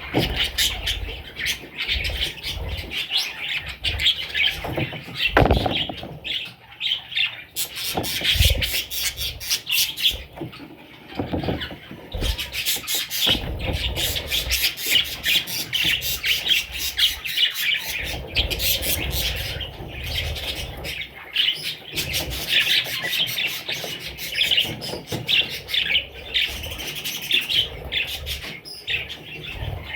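Budgerigars chattering: a rapid, unbroken stream of high chirps.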